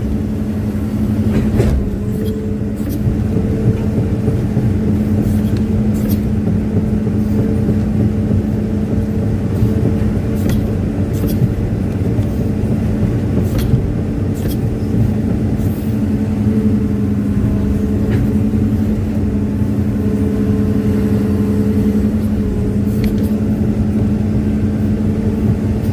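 Hitachi excavator's diesel engine running steadily at an even pitch, with a few sharp clicks and knocks now and then.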